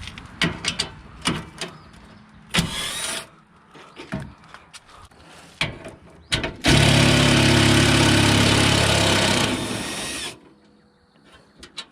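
Tools knocking and clicking against car parts, then a power tool running steadily for about three and a half seconds before stopping abruptly.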